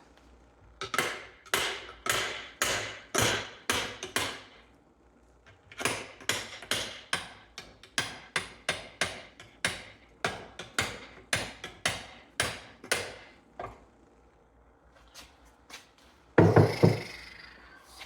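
Hammer blows, about two a second, in two runs with a short pause between, then one louder, heavier knock near the end.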